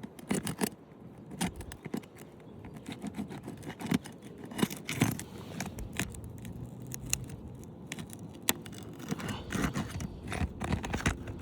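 Roof snake, a flat metal shingle-removal bar, working under asphalt shingles to break the seal: irregular scraping with sharp clicks and crackles as the shingle tabs are pried loose.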